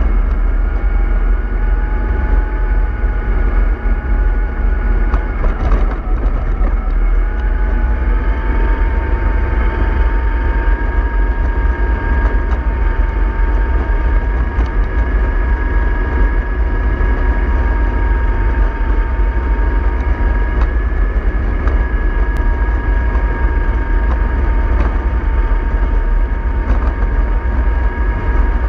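MAN 24.310 bus running under way, with a steady deep rumble and a drivetrain whine. The whine dips about five seconds in, then settles slightly higher and holds.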